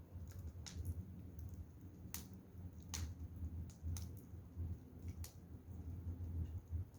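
Firewood fire crackling: irregular sharp pops and snaps, about one or two a second, over a steady low rumble.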